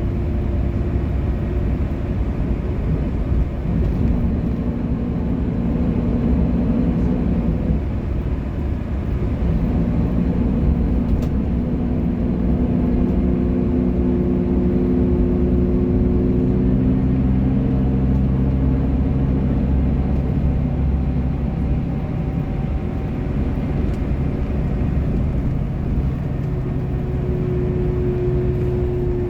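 Bus engine running under a dense low road rumble, its hum slowly shifting up and down in pitch as the bus changes speed.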